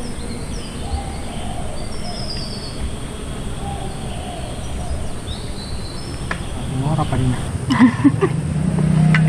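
Crickets chirping with faint bird calls in forest ambience. Voices and a low steady hum come in near the end.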